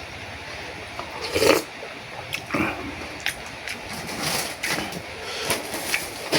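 A person eating boat noodle soup close to the microphone: several short slurps and chewing sounds with small clicks, the loudest slurp about a second and a half in.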